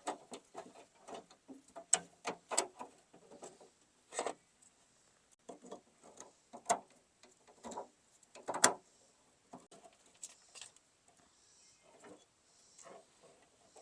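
Irregular clicks and light knocks of hands working a pickup tailgate's latch mechanism, fitting its rods and retaining clips. The loudest knocks come about 4 and 8½ seconds in, and they thin out near the end.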